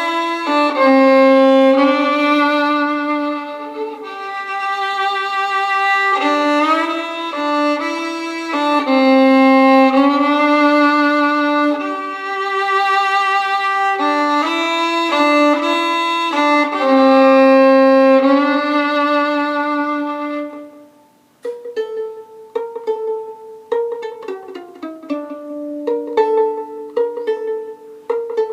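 Violin playing a Thai song melody in long bowed notes with vibrato. About twenty seconds in the bowing stops, and short plucked notes follow.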